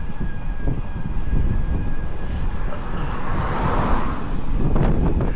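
Strong wind buffeting the microphone of a handlebar-mounted 360 camera on a moving bicycle: a steady low rumble, with a rushing swell of hiss about three to four seconds in.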